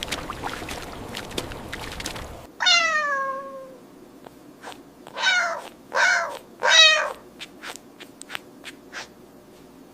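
A cat meowing: one long meow falling in pitch, then three shorter meows about a second apart.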